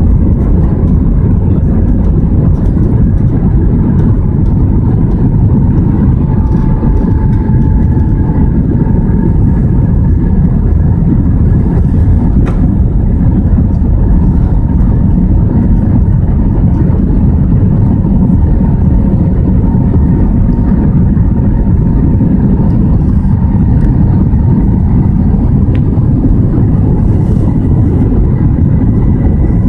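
Steady cabin noise of an Airbus A320-200 in flight: a low, even rumble of engines and airflow, with a faint steady hum.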